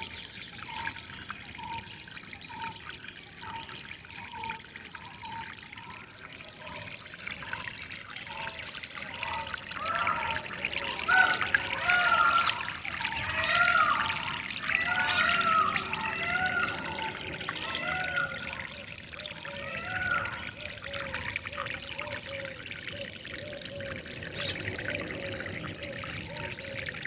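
Water trickling and pouring steadily, with birds calling over it: a regular series of short notes at first, a louder, busier burst of mixed calls in the middle, then a quick run of repeated lower notes near the end.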